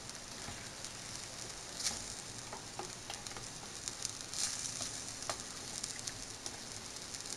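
Curry masala of onion paste and ground spices sizzling as it fries in oil in a pan, with scattered crackles and a spatula stirring and scraping through it.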